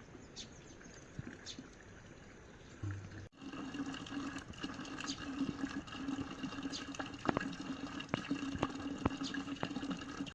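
Quiet background with a few light ticks, then from about three seconds in, water running steadily with a steady low tone in it and scattered drips and splashes, which stops abruptly at the end.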